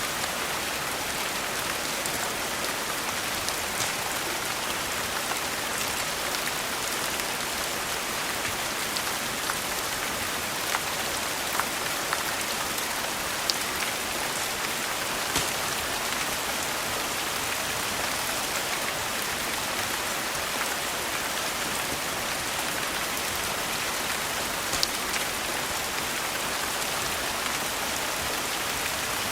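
Steady rain pattering on a surface, an even hiss with a few sharp ticks scattered through it.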